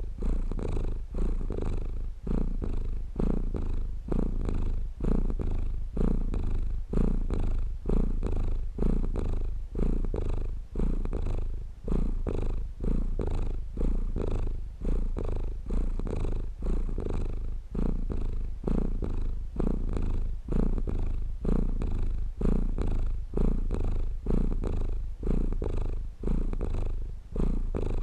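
Domestic cat purring close up, a low rumble that swells and fades about once a second with its breathing.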